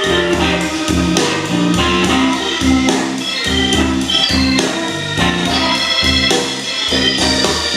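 Music played back through a home-built hi-fi speaker pair with Focal and KEF drivers: keyboard or organ chords over a rhythmic, repeating bass line.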